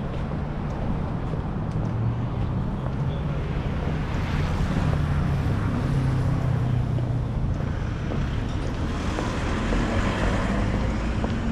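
Road traffic on a city street: a steady hum of vehicle engines with tyre hiss that swells as vehicles pass, once around the middle and again near the end.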